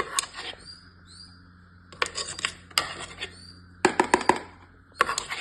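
A utensil clinking and scraping against a bowl in several short bursts as a soft food mix is stirred. Faint high chirps of birds sound between the bursts.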